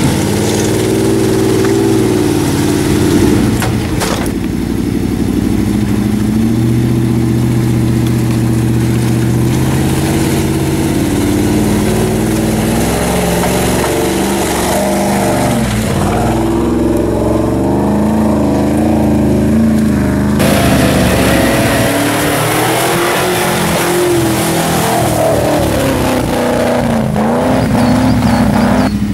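Land Rover Discovery's V8 engine revving under load as it climbs through deep mud ruts, its pitch rising and falling with the throttle. The sound changes abruptly a few times where the shots are cut together.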